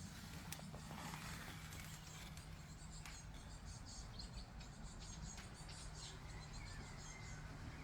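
Faint, scattered high chirps of small birds, over a low steady hum and a few light clicks.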